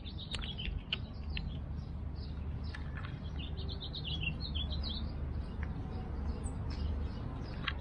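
Small birds chirping in short, high calls, busiest a few seconds in, over a steady low rumble.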